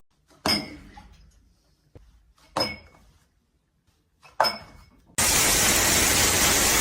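Three sharp clinks of hard objects struck together, about two seconds apart, each ringing briefly. A steady loud hiss starts about five seconds in.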